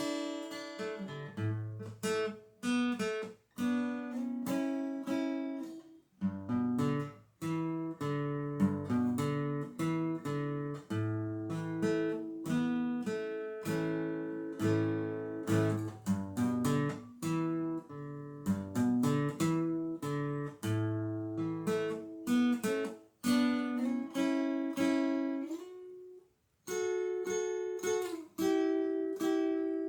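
Acoustic guitar playing a continuous run of picked double stops and chords, each note ringing and decaying, with a brief pause near the end.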